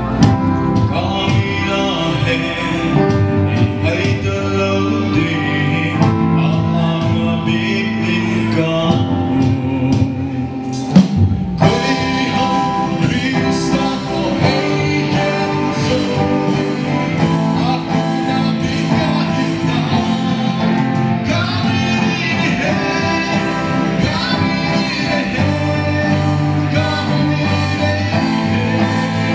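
A live church song: singing over guitar-led band accompaniment. The music drops back briefly about ten seconds in and is broken by a sharp hit.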